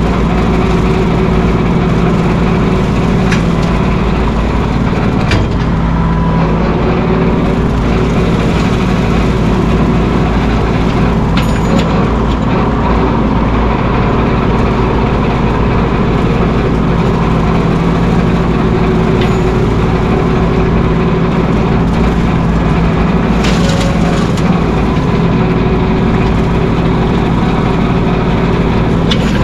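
Mahindra 1626 sub-compact tractor's diesel engine running steadily, with a few brief cracks or knocks.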